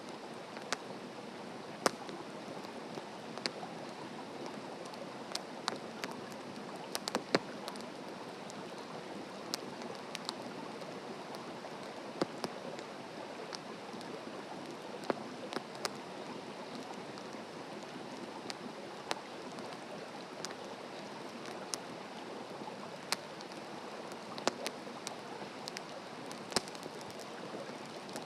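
Wood fire burning steadily with a soft hiss, with sharp crackles and pops of burning firewood at irregular moments.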